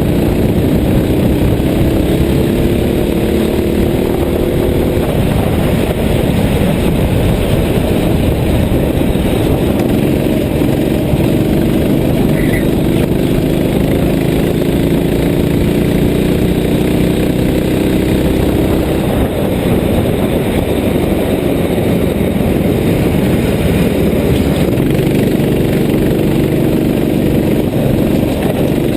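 Motorcycle engine running under way, its pitch slowly rising twice, over a heavy steady rumble of noise.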